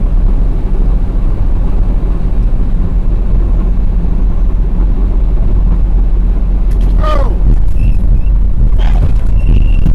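Vehicle on the road heard from a dashcam: a steady, loud low rumble of engine and tyres. About seven seconds in, and again near the end, there is a short falling sound.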